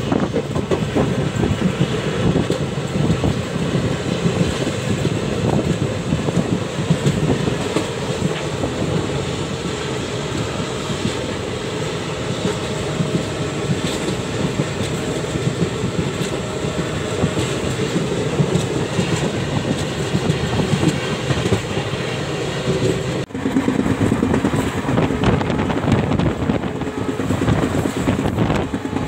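Passenger train running at speed, heard on board: a steady rumble with the wheels clattering over the rails. About 23 seconds in the sound breaks off for an instant and resumes with a heavier, windier rumble.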